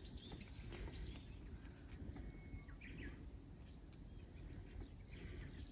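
Birds chirping faintly with scattered short calls, over a steady low outdoor rumble.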